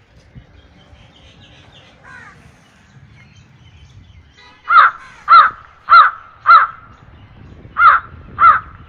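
A bird calling loudly: a run of four calls about 0.6 s apart, a short pause, then three more, beginning about two-thirds of the way in.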